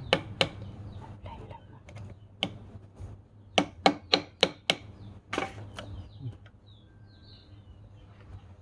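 Sharp taps or knocks on something hard: a few near the start, then a quick run of about five at roughly four a second, over a low steady hum.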